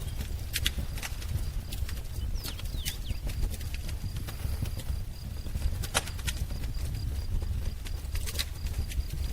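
Wood fire crackling, with many sharp irregular pops over a steady low rumble, and a couple of short bird chirps about three seconds in.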